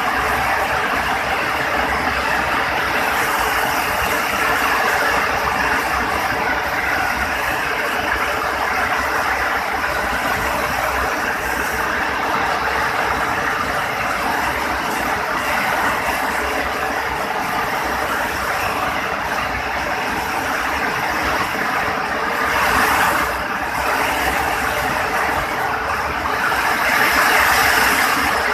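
Very heavy rain pouring down, a steady loud hiss that swells briefly twice, about two thirds of the way in and again near the end.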